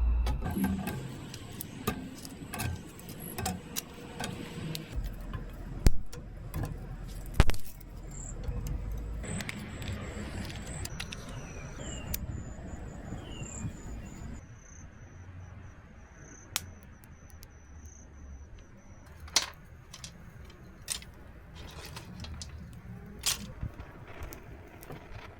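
Scattered clicks, knocks and light metallic clatter of things being handled, with a few louder knocks in the first half. After about halfway it settles to occasional sharp clicks over a quieter background with a thin, steady high tone.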